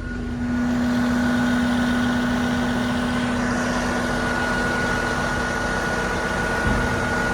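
Western Star dump truck's engine running steadily under PTO load as the hydraulic hoist raises the dump body, with a steady low hum and a fainter higher whine.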